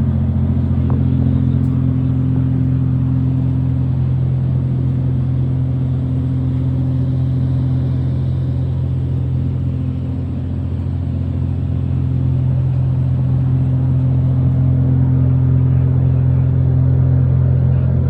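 Ferry engine running with a steady low drone, heard from aboard, dipping slightly in loudness about ten seconds in.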